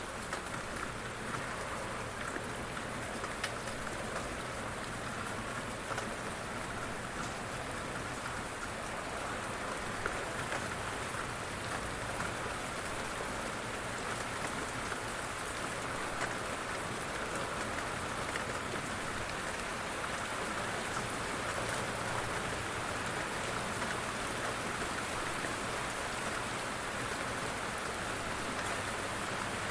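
Steady rain, an even hiss with scattered faint drop ticks, holding the same level throughout.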